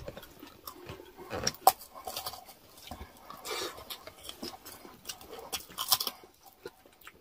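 Close-up eating sounds: chewing and crunching of crispy chicharon bagnet (deep-fried pork), with a string of short, crisp clicks and crackles. The loudest come about a second and a half in and again near six seconds.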